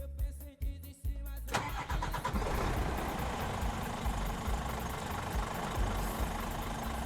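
Scania R420 truck's six-cylinder diesel engine cutting in suddenly about a second and a half in, then running steadily, over background music with a steady beat.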